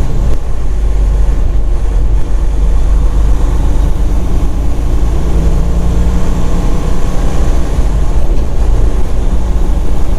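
Semi-truck's diesel engine running under light load with road noise, heard inside the cab as a steady low rumble while the truck rolls slowly in traffic.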